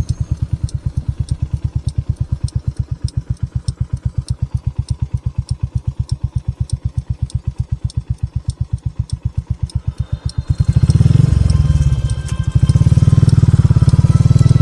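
Motorcycle engine idling with an even low pulse and a light, regular ticking, about three ticks a second. About ten seconds in it becomes much louder and stays loud.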